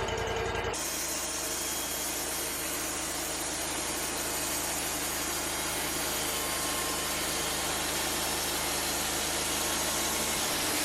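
Wood-Mizer LT35 portable band sawmill running: a steady engine hum under an even hiss. The sound changes abruptly about a second in, and the low engine hum drops away near the end.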